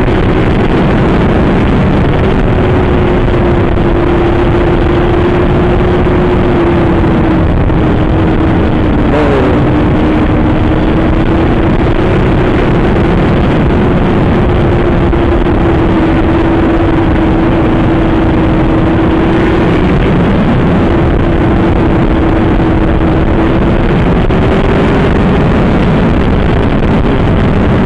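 Superbike engine running hard at a steady high note under heavy wind roar, heard from inside the rider's helmet; the engine pitch wavers and dips briefly a couple of times.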